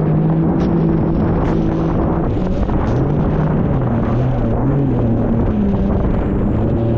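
Jet ski engine running under way, its pitch dropping about three seconds in and rising again near the end, with wind rushing over the microphone.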